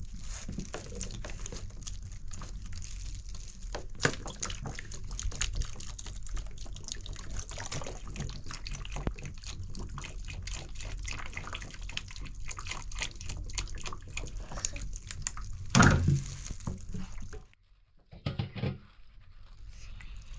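Water trickling and dripping with many small irregular clicks, over a steady low rumble. There is one loud knock about 16 seconds in, after which the sound briefly drops away.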